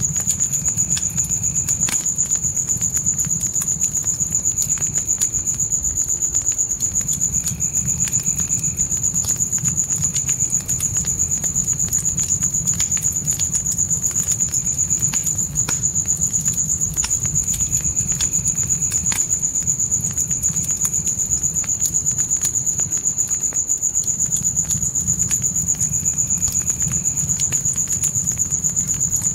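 Crickets trilling in one steady high-pitched tone over a crackling wood fire, with frequent sharp pops and a low steady rumble beneath.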